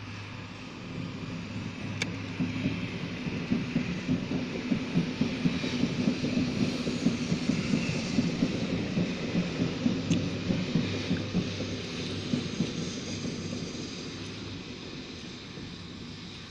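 Passenger train passing: a steady low hum with a rhythmic clatter of wheels on the track. It grows louder over the first few seconds and fades away near the end.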